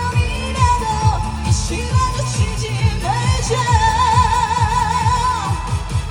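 A female singer singing a trot song over a band backing track with a steady kick-drum beat, holding one long note with wide vibrato in the middle.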